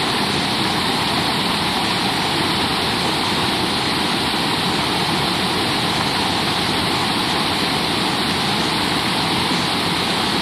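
Flowing river water rushing steadily over rocks.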